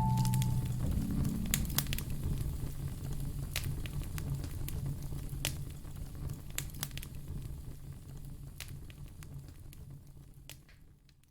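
Wood fire crackling, with scattered sharp pops over a low steady rumble, fading out near the end.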